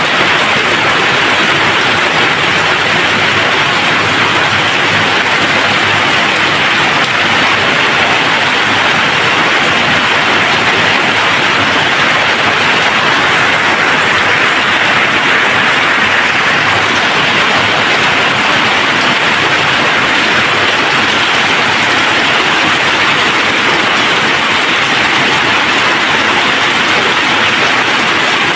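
Steady rain falling, an even hiss with no thunder and no breaks.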